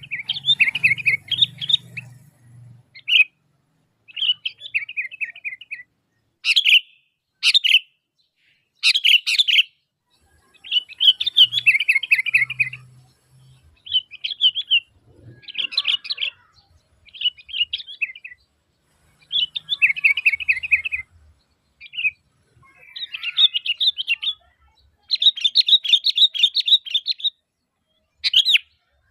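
Sooty-headed bulbul calling repeatedly: short, bubbling, chattering phrases about a second long, with brief pauses between them.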